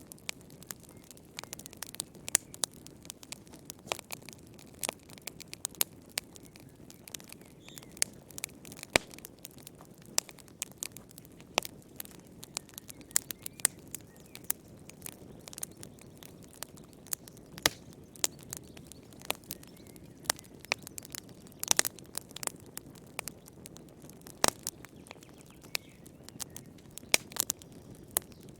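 Wood fire in a fireplace crackling: irregular sharp snaps and pops, several a second, over a soft steady rush of flame.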